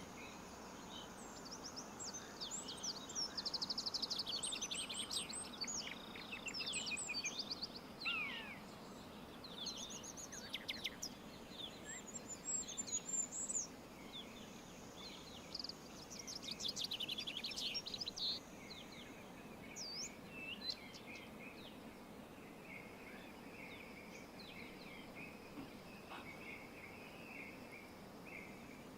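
Songbirds singing in bouts of rapid trills and chirps over a steady low hiss of outdoor ambience, with a faint buzzy chirring in the later part.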